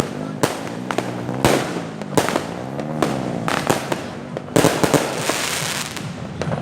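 Fireworks going off: a quick, irregular run of sharp bangs and cracks, with a longer hissing burst about four and a half seconds in.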